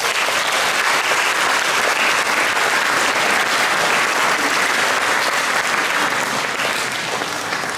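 Audience applauding at the end of a choir piece, building quickly and fading near the end.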